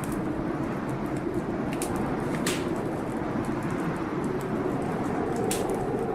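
Wood fire crackling with a few sharp pops, over a steady rushing storm noise.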